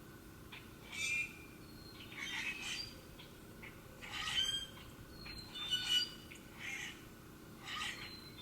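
A bird giving short, harsh squawking calls, repeated about once a second.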